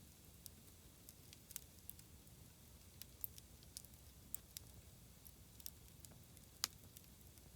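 Bonfire wood crackling: faint, irregular sharp pops and snaps scattered over a low steady rumble, with one louder snap near the end.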